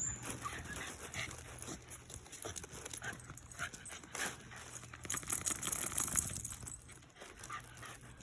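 Shiba Inu puppies moving about, with scattered light clicks and scuffles and a few brief faint sounds.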